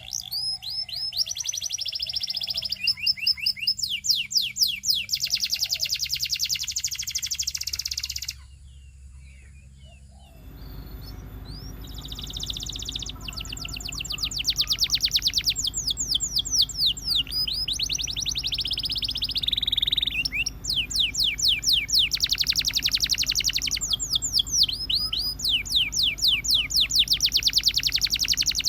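Canary singing: long, high-pitched runs of rapid repeated notes and trills. The song breaks off for about two seconds a third of the way through, and when it resumes a low steady hum runs underneath.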